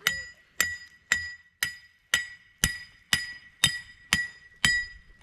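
A hammer driving a raccoon trap's metal anchor stake into the ground: a steady run of about eleven ringing strikes, roughly two a second.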